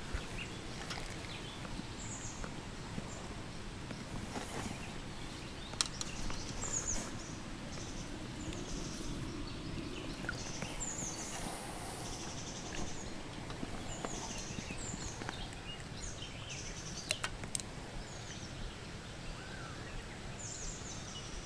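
Small birds chirping over a steady outdoor background hiss, with many short, quick falling chirps, and a few sharp clicks about six seconds in and again near seventeen seconds.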